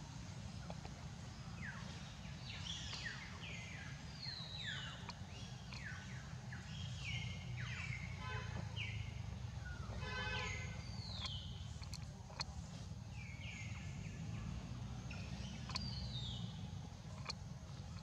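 Wild birds singing: many short whistled notes, each sliding downward in pitch, repeated again and again, with a short rattling call about ten seconds in. A steady low rumble runs underneath.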